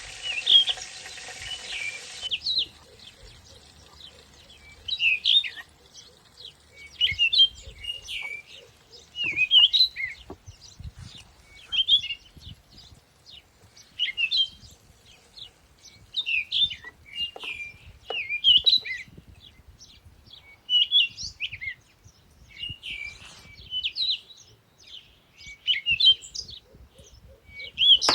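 A songbird singing short, chirpy phrases, repeated every second or two. For the first two seconds a steady hiss, like food sizzling in a pan, runs underneath and then cuts off.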